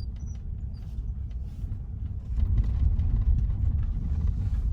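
Low, steady rumble of a vehicle on the move, getting louder about halfway through.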